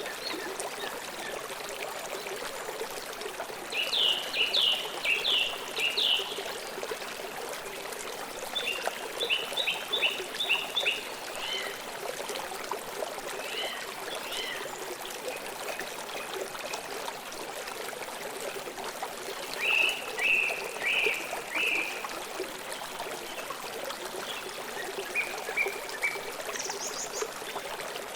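River water flowing steadily, with birds singing over it in several short phrases of quick repeated chirps.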